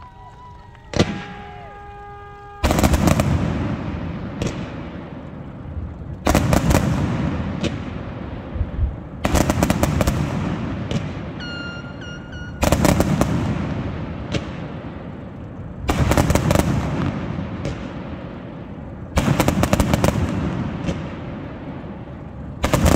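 Fireworks going off close by in seven loud crackling bursts, about one every three seconds; each starts suddenly and crackles away over a couple of seconds. A short steady tone sounds before the first burst, and another around the middle.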